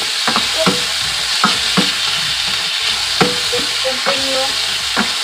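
Chicken with garlic and onion sizzling in hot oil in a stainless steel wok, a steady hiss, while a spatula stirs it with irregular knocks and scrapes against the pan.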